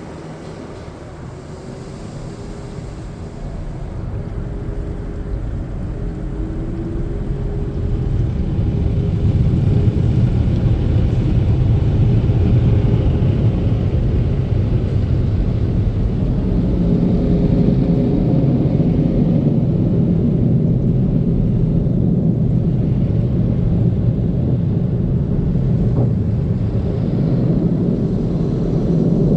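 Automatic car wash machinery running: a low rumble that grows louder over the first ten seconds or so, then holds steady.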